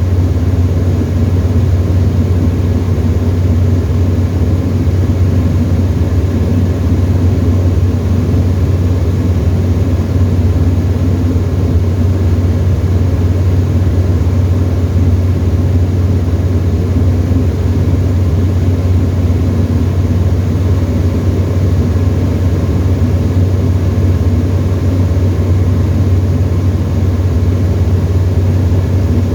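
Tecnam ultralight airplane's engine and propeller running steadily, a constant low drone heard from inside the cockpit.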